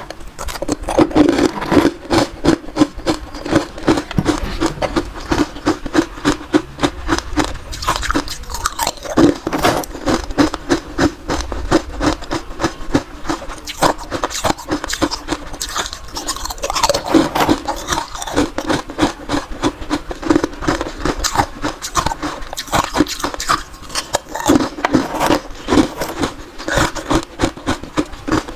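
Someone chewing crunchy ice: a continuous run of sharp crunches, several a second.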